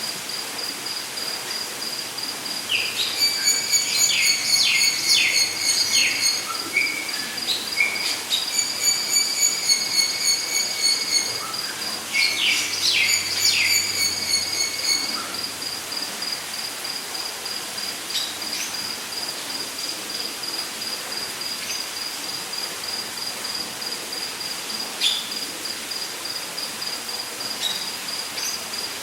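Rainforest ambience: a steady, high, rapidly pulsing insect trill runs throughout. Over it, birds call in three bursts in the first half, each a string of quick falling whistles over a held lower note, with a few single calls later.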